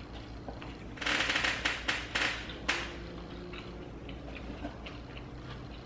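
Chewing a mouthful of crispy fried chicken sandwich: a run of crunchy crackles starting about a second in and lasting a couple of seconds, then fainter chewing.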